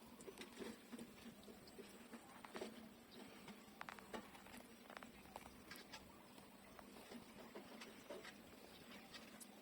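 Faint suckling of newborn puppies nursing: scattered small wet clicks, with a tiny squeak about four seconds in.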